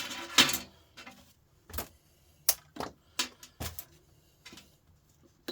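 Irregular sharp clicks and light clinks, about ten over a few seconds, as small pieces of scrap metal are handled.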